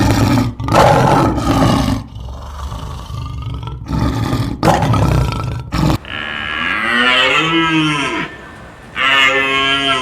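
Loud animal calls: several rough, noisy roars in the first six seconds, then two drawn-out pitched calls that rise and fall, one about six seconds in and one near the end.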